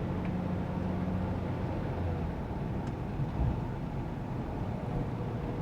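Steady engine and tyre noise inside the cabin of a moving GAZ Sobol van. The low engine hum eases about two seconds in, and there is a brief low thump a little past the middle.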